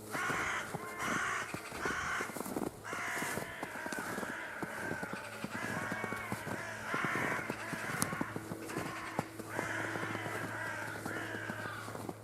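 Crows cawing over and over, with footsteps crunching in snow underneath.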